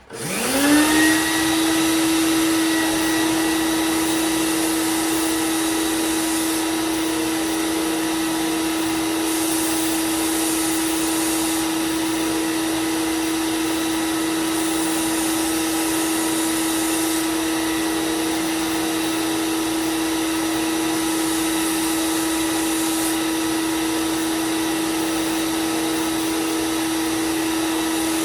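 Belt sander switched on, spinning up within a second to a steady hum and then running steadily. Four times a higher hiss rises over it for two or three seconds as a knife is sharpened on the belt.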